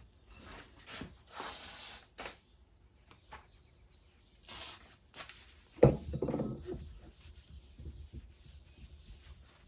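Masking tape being pulled off the roll and wrapped over the snap-ring groove of a motorcycle fork tube, heard as two scraping bursts, with a sharp knock of handled parts about six seconds in.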